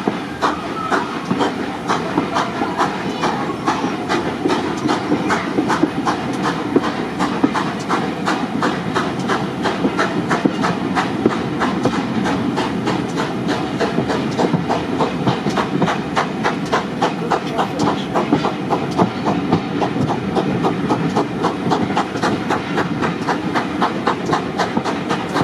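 Heritage railway train running at steady speed, its wheels clicking over the rail joints in a fast, even rhythm over a continuous rumble and hiss.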